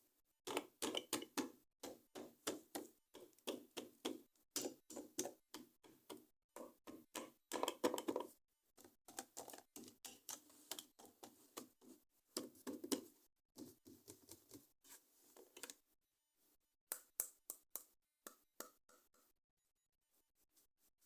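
Plastic toy packaging being handled and opened, crackling and clicking in quick dense runs that thin out to scattered clicks about 16 seconds in.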